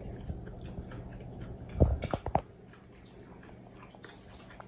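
Eating sounds: chewing crunchy steamed vegetables, with light clicks of a fork on a takeaway tray. A brief cluster of short sharper sounds about two seconds in is the loudest part.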